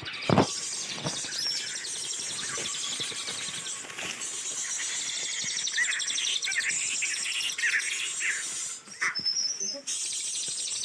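Birds chirping in forest, with a run of short calls in the middle and a brief high call near the end, over a steady high insect drone. A sharp knock sounds just after the start.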